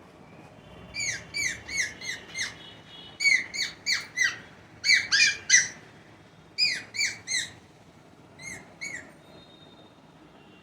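Pet parrot giving loud, harsh squawking calls, each one short and falling in pitch, repeated in quick runs of two to five with short pauses between runs, then stopping about nine seconds in.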